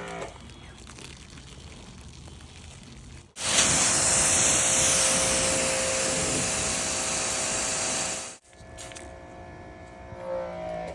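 Pressure washer spraying water, a steady hiss that comes in suddenly about three seconds in and cuts off abruptly about eight seconds in, with quieter spray noise before and after.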